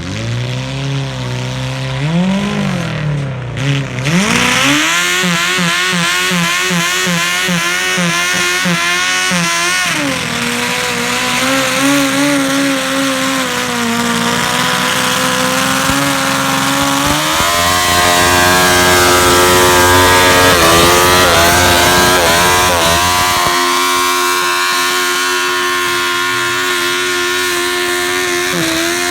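Kawasaki GPZ900 inline-four motorcycle engine in a modified Wheel Horse garden tractor, revving hard while pulling a stoneboat. The revs climb sharply about four seconds in and stay high with a warbling pitch, dip briefly, rise again past the middle, and settle to a steadier, lower speed near the end.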